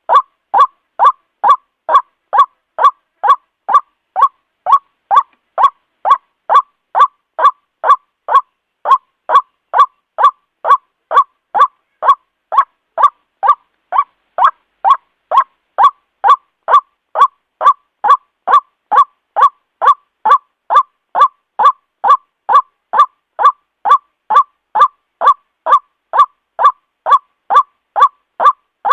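White-breasted waterhen calling, a steady series of short, evenly spaced calls at about two a second, with a brief break about eight seconds in.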